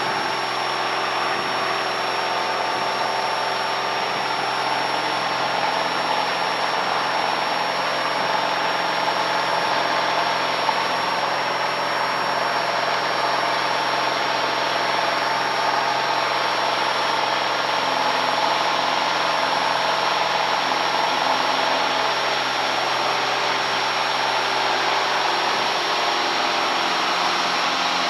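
Piper Lance's six-cylinder Lycoming IO-540 engine running steadily at high power for the takeoff run, heard from inside the cabin. It holds an even note with no sputter or break, the plane heavy in hot air.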